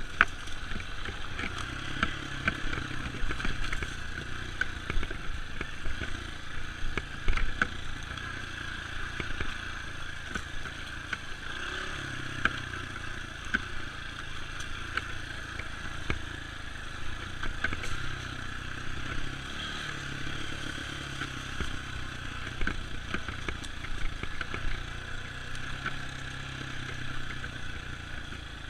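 Dirt bike engine running during a trail ride, with frequent short clattering knocks throughout.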